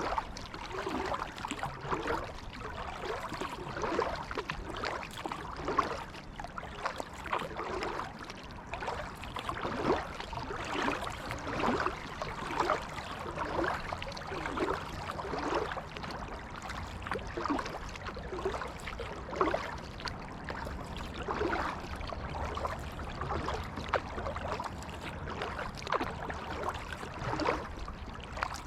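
Kayak paddle dipping and splashing in calm creek water in a steady rhythm, about one stroke a second, with water dripping and trickling between strokes.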